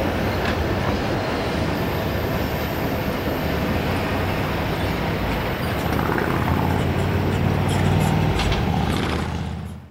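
Freight train rumbling past, steady, with a low locomotive engine hum swelling about seven seconds in; the sound fades out at the very end.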